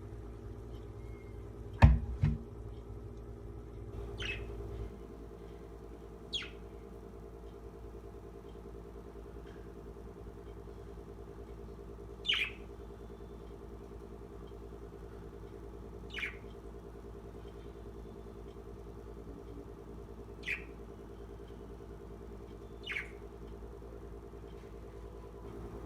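A pet parrot giving short, sharp chirps every few seconds, each a quick falling note. Two loud thumps about two seconds in.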